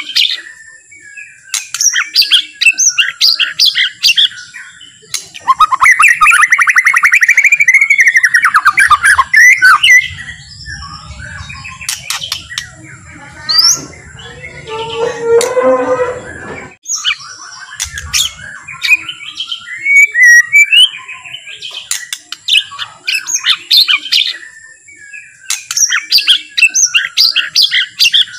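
White-rumped shama (murai batu) singing a long, varied song of rapid chattering trills and whistled phrases, with a louder, busier stretch in the middle. It is a slow, relaxed song of the kind played to provoke other shamas into singing.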